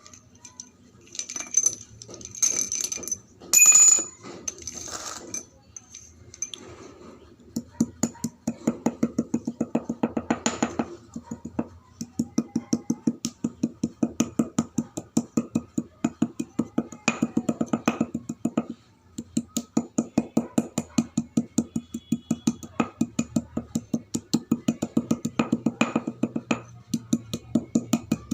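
Chalk being crunched: loud, irregular crackling snaps for the first few seconds, then a fast, even run of crisp crunching clicks, about four or five a second.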